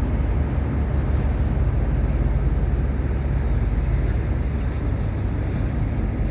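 Small wooden tugboat's engine running steadily under load while towing four heavy pontoons, a continuous low drone with water and wind noise over it.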